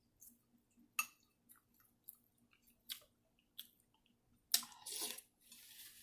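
Close-up chewing and mouth sounds of a person eating, with scattered sharp clicks and a louder, noisier stretch about four and a half seconds in.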